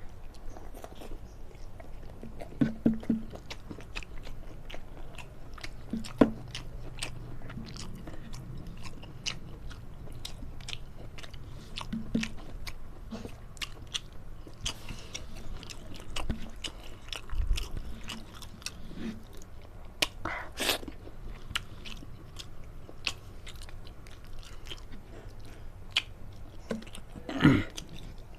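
Close-up sounds of a person chewing a mouthful of long beans in spicy shrimp-paste chilli sauce, with many small wet clicks throughout. A louder mouth sound comes near the end.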